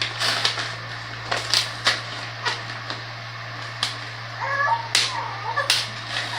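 Sharp clicks, scrapes and knocks of a screwdriver tearing through the tape of a cardboard box, over a steady low hum. About four and a half seconds in comes a short, high, wavering whimper.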